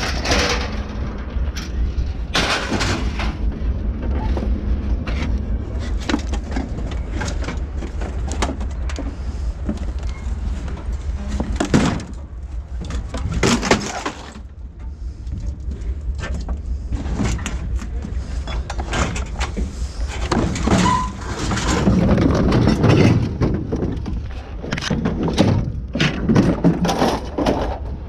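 Scrap metal clanking and crashing again and again as a load is dropped, over a steady engine rumble.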